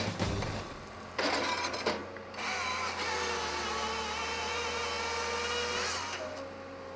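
Motor-driven power tool running steadily for about three and a half seconds, after a short noisy burst about a second in.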